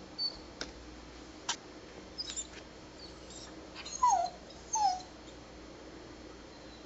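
Dog whimpering: two short, high whines that fall in pitch, about four and five seconds in, after a few faint clicks and squeaks.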